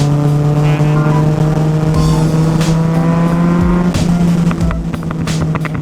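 Yamaha FZ-09's three-cylinder engine through a full M4 aftermarket exhaust, pulling under way with the pitch climbing slowly, then easing off about four seconds in.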